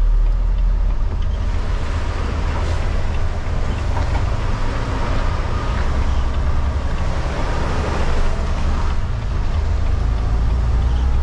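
Semi truck running, heard from inside the cab: a steady low diesel rumble with an even hiss of road noise over it.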